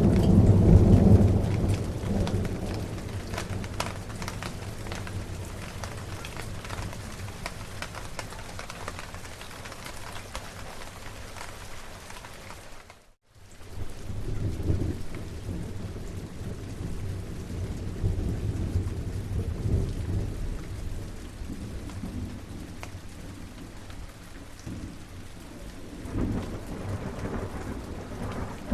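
Steady rain falling, with low rolling thunder. A heavy rumble dies away over the first couple of seconds, softer rumbles come back past the middle, and another builds near the end. The sound cuts out completely for a moment near the middle.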